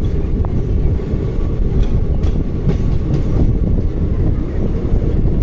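Train running on the rails, heard from the open doorway of a moving coach: a steady low rumble of wheels on track, with a few light wheel clicks over rail joints near the middle.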